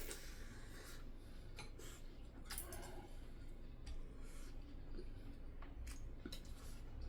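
Eating sounds at a home meal: scattered light clicks of utensils against dishes and short bits of chewing, several times through.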